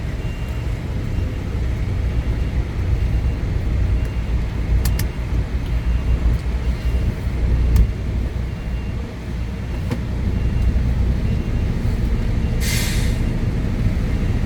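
Truck's diesel engine running at low speed while maneuvering, with one short burst of air-brake hiss near the end.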